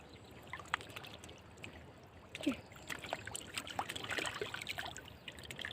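Shallow running floodwater trickling, with scattered small splashes and drips that grow busier past the middle, as hands work in the water. A short falling sound about two and a half seconds in.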